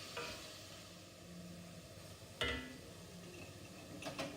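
Small chicken-breast pieces frying in butter in a pan: a faint, steady sizzle. A single knock comes about two and a half seconds in, and a few light clicks near the end.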